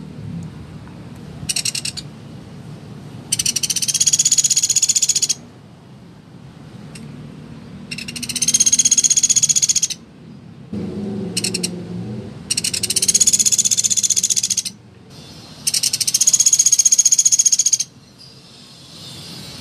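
Pelatuk beras woodpecker calling: a series of high, rapid trills about two seconds long, five long ones with a couple of short bursts between them.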